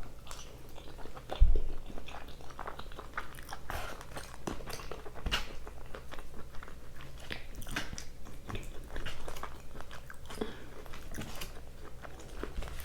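Close-up eating sounds: a person biting and chewing carne asada fries, with many small wet clicks and crunches. About a second and a half in there is a low thump.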